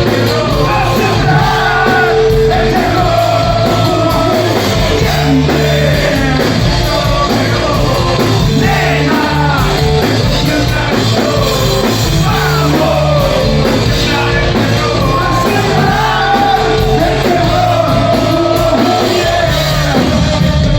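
Rock band playing loud, with a singer's voice carrying the melody over steady bass notes.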